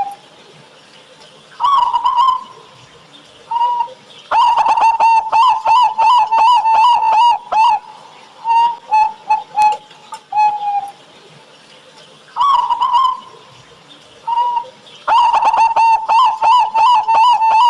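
Zebra doves (perkutut) cooing: short pitched coos, then a long rapid run of notes about four seconds in and again near the end.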